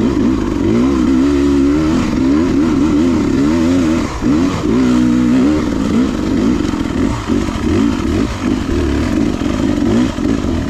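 Beta 300RR two-stroke dirt bike engine revving up and down as it is ridden, its pitch repeatedly rising and falling with the throttle.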